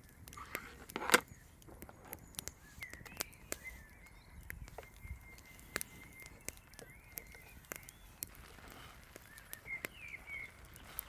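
Scattered sharp clicks and snaps, with one louder knock about a second in, and a thin, wavering high call that comes and goes through most of it.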